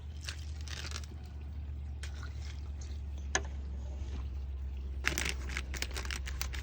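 A ladle scooping and pouring rendered pork lard thick with bird seed into a cookie sheet: soft scrapes and wet pours, a single sharp tap about three seconds in, and a quicker run of scraping near the end, over a steady low hum.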